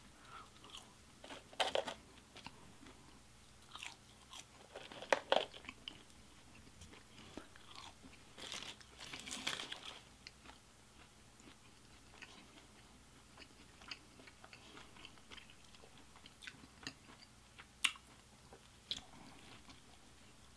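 Close, faint mouth sounds of a person eating fast food: chewing French fries, then biting into and chewing a burger. Scattered soft mouth clicks, with a few louder crunches, the loudest about five seconds in and a sharp click near eighteen seconds.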